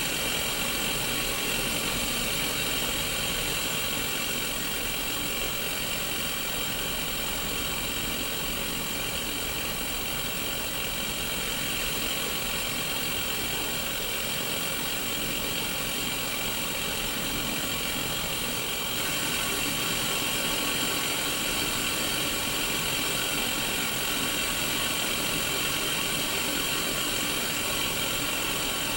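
Static from an untuned Sony Mega Watchman black-and-white CRT TV: a steady, hissing white noise from its small speaker, a little louder from about 19 seconds in.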